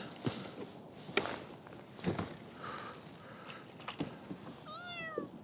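Sharp knocks and thumps on a kayak as a hooked fish is brought in, with a short falling cry near the end.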